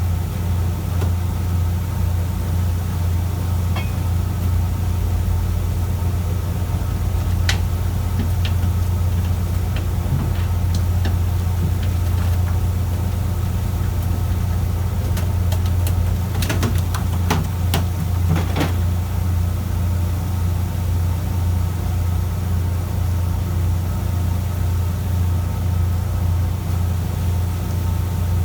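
Fishing boat's engine running with a steady low drone. A short cluster of sharp clicks and knocks a little past halfway.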